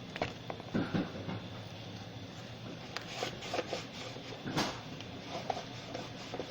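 Handling noises from working on a Roomba: a few light knocks and short rustles, spread out and irregular, with the strongest rustle a little past halfway.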